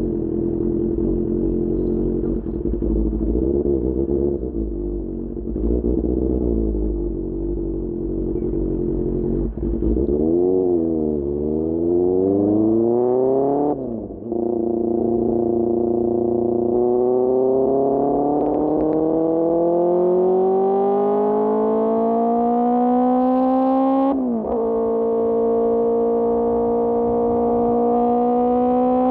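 QJMotor SRK600 inline-four engine through a Pure Austin Racing GP1R exhaust: running steadily with a deep rumble, then the revs waver up and down before it pulls away. It climbs in pitch through the gears, with a quick dip at an upshift about halfway through and another one later on.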